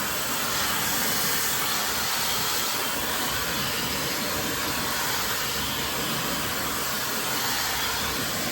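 High-speed brushless-motor hair dryer blowing without a nozzle attached: a steady, loud rush of air that does not change.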